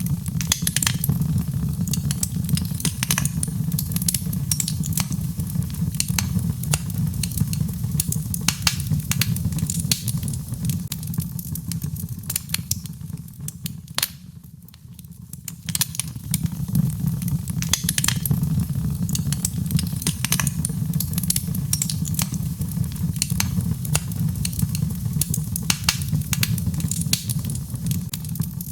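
Birchwood fire burning in a fireplace: frequent sharp crackles and pops over a steady low rumble. About halfway through, the crackling pauses for a second or so.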